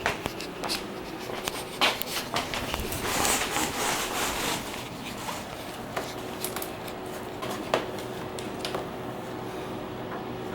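Irregular light clicks, taps and rustling of hands handling tools and brake-line parts, busiest in the first half, over a faint steady hum.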